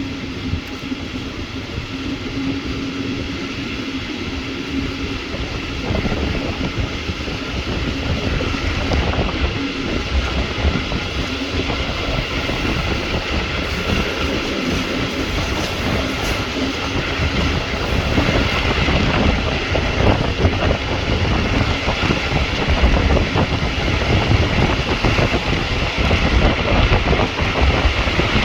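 Regional train running, heard from on board, with the rumble of wheels on rails growing slowly louder as it gathers speed. A steady hum sits under the noise for the first few seconds.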